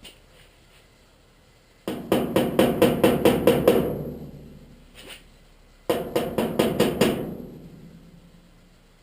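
Hand hammer striking sheet metal in two quick runs of blows, about six a second, the metal ringing on briefly after each run, with a single knock between them.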